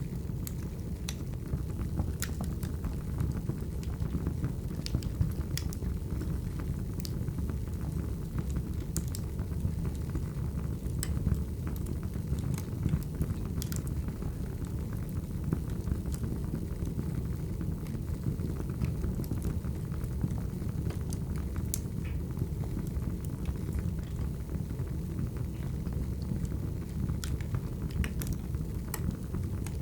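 Burning firewood crackling: a steady low rumble of the fire with irregular sharp pops and snaps, roughly one a second.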